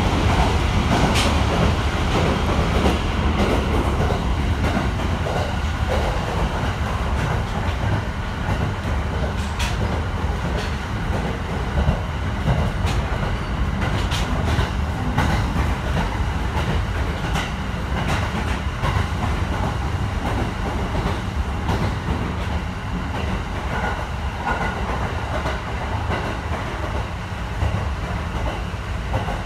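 JR 209-series electric train running, heard from inside the carriage: a steady low rumble of wheels on rail, with scattered sharp clicks as the wheels pass rail joints.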